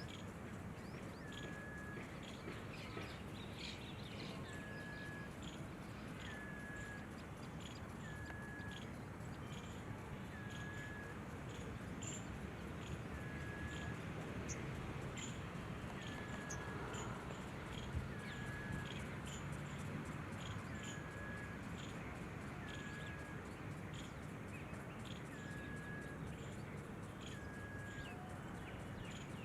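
Outdoor birdsong: one bird repeats a short, even note about every two seconds, with scattered short high chirps from other birds, over steady background noise.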